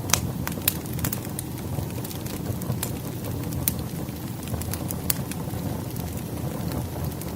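Wood fire burning, a steady low rumble with irregular sharp crackles and pops every half second or so.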